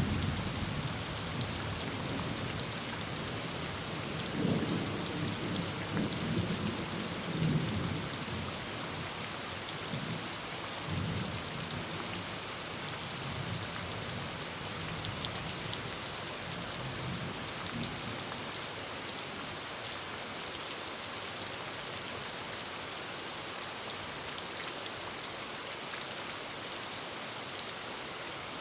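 Heavy rain falling steadily on a tin roof. Thunder rumbles low through the first dozen seconds, loudest about five and eight seconds in, then fades, leaving only the rain.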